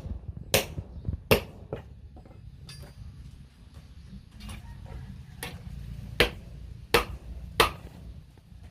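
Hammer blows on steel at a blacksmith's anvil, forging a knife: sharp separate strikes, three in quick succession, a pause, then four more at a steadier pace. A steady low rumble runs underneath.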